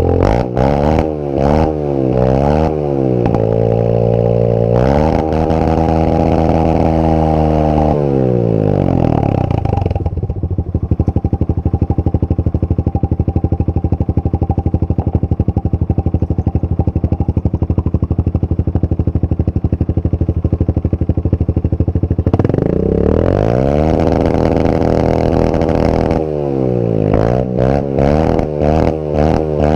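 Honda CRF125F dirt bike's single-cylinder four-stroke engine revved in quick blips, then held high, before dropping back to a steady idle for about twelve seconds. It is then revved up again and blipped rapidly near the end.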